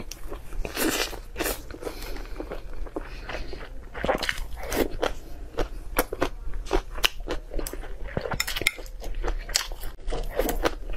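Close-miked eating: irregular wet mouth smacks and crunchy chewing, with a bite into a slice of yellow pickle near the end.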